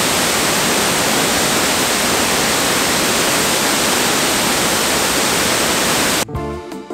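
Loud, steady rush of a large waterfall, an even roar of falling water. It cuts off about six seconds in, where background music begins.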